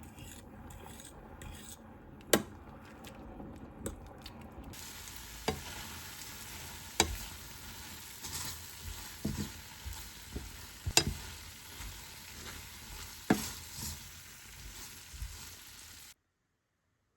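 Food sizzling in a pan while being stirred, with a utensil knocking against the pan several times. The sound cuts off abruptly near the end.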